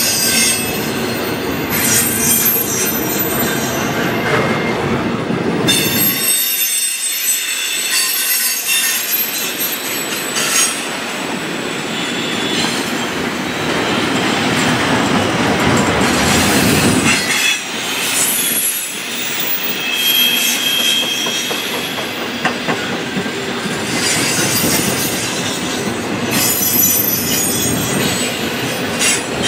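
Double-stack intermodal freight cars rolling past at a grade crossing: a steady rumble and clatter of steel wheels on the rails, with high-pitched wheel squeal coming and going.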